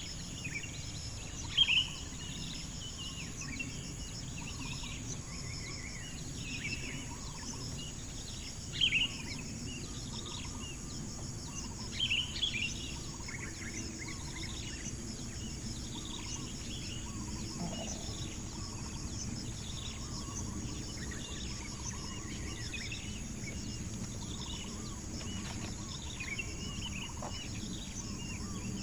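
Coucal chicks' short, sharp begging calls, repeating irregularly, with three louder calls in the first half, over a steady high hum of insects.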